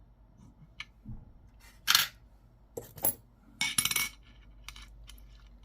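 Coins clinking and clicking as they are handled and swapped, a handful of short sharp metallic clinks with the loudest about two seconds in.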